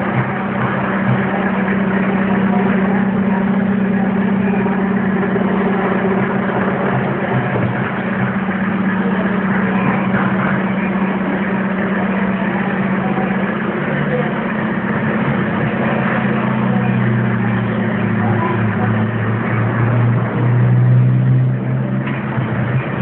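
2002 Hyundai Accent's four-cylinder engine idling steadily, with a deeper hum coming up strongly near the end.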